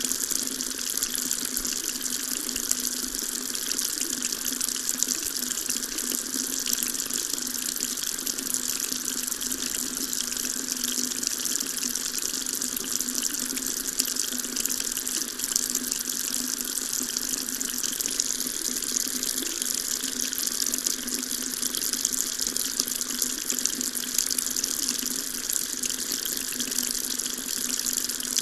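Water tap running in a steady stream, an even splashing hiss with a faint low hum under it.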